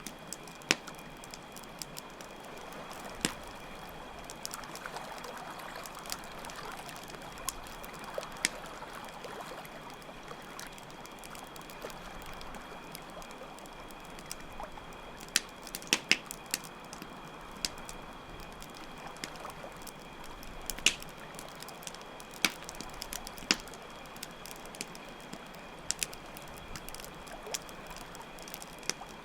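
Campfire crackling, with irregular sharp pops, over the steady sound of flowing water. Crickets trill steadily in a high tone.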